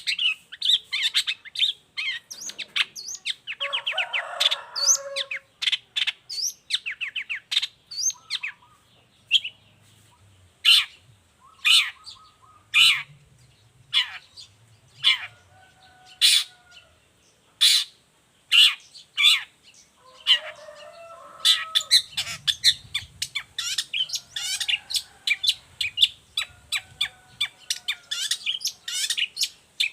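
Long-tailed shrike (cendet) singing continuously: a rapid, varied stream of short, sharp high notes with a harsh rasping passage a few seconds in.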